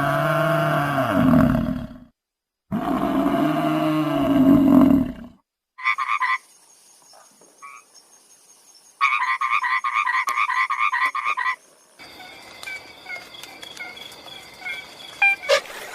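A run of separate animal calls: two long, low calls, then a short pulsed call and a fast, pulsing croak-like trill, and finally quieter chirps and clicks in the background.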